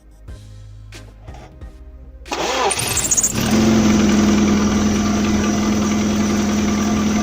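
A few faint clicks, then a car engine cranks and fires about two seconds in, with a brief high squeal that rises and falls as it catches: the serpentine (alternator drive) belt slipping on its pulleys at start-up, typical of rubber stiffened by cold. The engine then settles into a steady idle.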